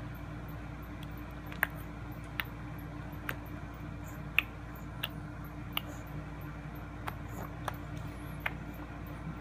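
Baby making clicking noises with her mouth: sharp single clicks repeated about once every three-quarters of a second, around a dozen in all, over a faint steady room hum.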